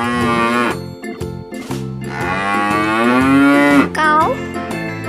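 Cow mooing twice, two long low calls, the second longer, over a children's music backing track.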